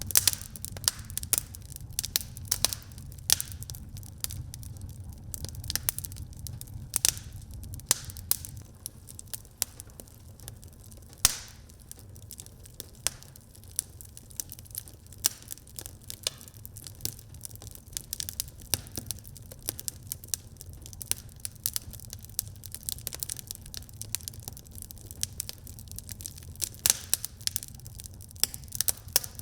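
Fire burning in a fireplace, crackling with frequent irregular pops and snaps over a low steady rumble; one sharper, louder pop about eleven seconds in.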